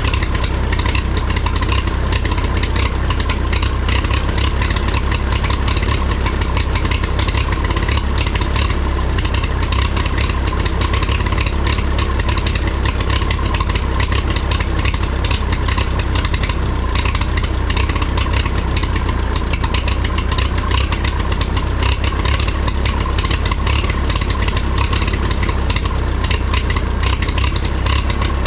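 1954 Minneapolis Moline UBU tractor's four-cylinder spark-ignition engine running steadily after a fresh tune-up with new plugs, points, condenser, cap and rotor and reset timing.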